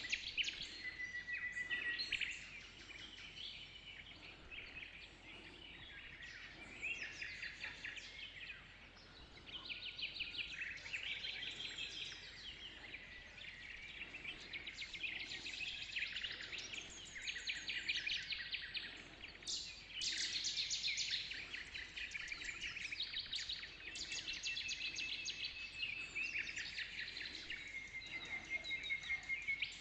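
Dawn chorus of several songbirds: many rapid chirps and trills overlapping without pause, with short whistled notes among them.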